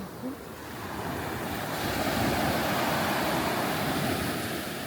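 Ocean surf: a wave breaks and washes up the beach, swelling to its loudest about two seconds in and easing off near the end, with wind buffeting the microphone.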